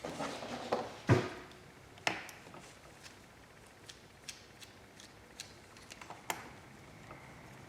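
Clicks and knocks of small parts and tools being handled, the loudest knock about a second in, followed by scattered lighter clicks.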